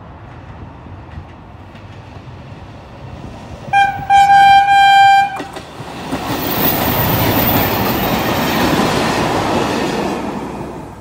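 Vintage diesel railcar sounding its horn, a short toot and then one long blast about four seconds in, then passing close by with its engine and wheels rumbling on the track before fading near the end.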